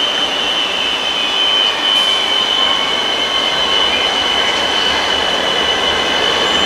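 Freight train headed by a Lineas class 77 diesel locomotive rolling slowly past. A steady high-pitched wheel squeal rings over the rumble of the train and the diesel engine.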